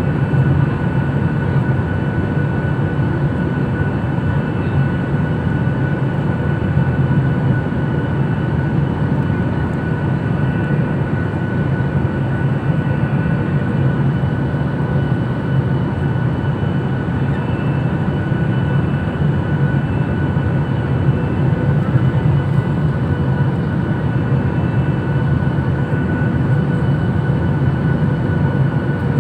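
Airliner cabin noise in flight: a steady rush of engine and airflow noise with faint steady whines over it.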